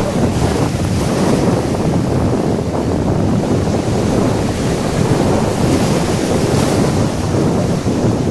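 Wind buffeting the microphone over the steady rush of surf on a beach, with a brief hiss of washing water now and then.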